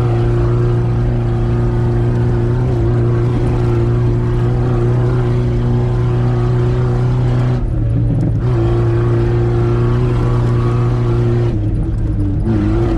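Dacia car engine running loud and steady through an FI Exhaust, with a constant drone under load. About eight seconds in and again near the end, the note briefly drops and shifts in pitch as the throttle eases off.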